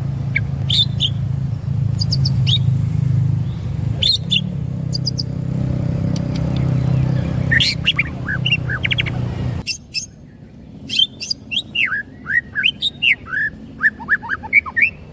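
Songbird chirping and calling in quick short notes, over a steady low hum that cuts off about ten seconds in; after that the chirps come faster, in rapid rising and falling notes.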